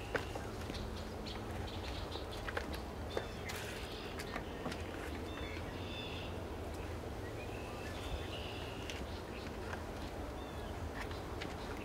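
Birds giving short, scattered chirping calls over a steady low background rumble, with light clicks and taps here and there.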